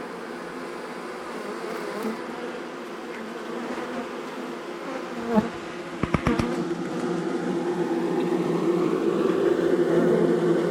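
A honeybee colony buzzing, a steady hum that swells louder toward the end. A few sharp knocks come about five to six and a half seconds in.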